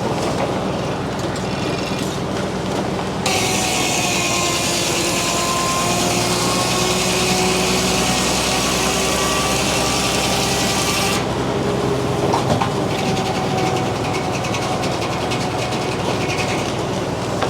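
Frick sawmill's circular blade sawing a board off a poplar log. About three seconds in the blade enters the wood with a loud rasping cut that lasts about eight seconds, then it comes out of the cut and spins free. The mill's power unit and the spinning blade hum steadily throughout.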